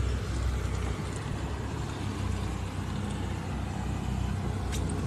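Boat engine running steadily with a low hum, under a hiss of wind and water.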